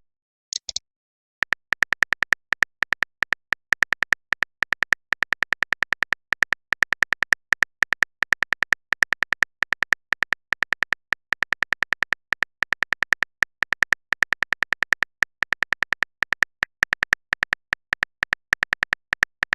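Rapid, steady keyboard typing clicks from a texting-app sound effect, broken by a short pause about a second in.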